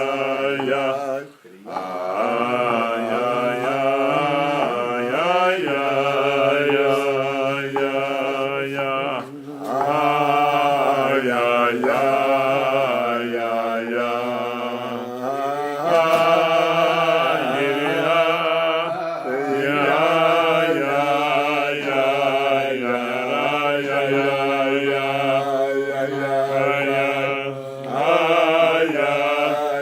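Closing music: a chanted vocal melody over a steady low drone, sung in long phrases with short breaks between them.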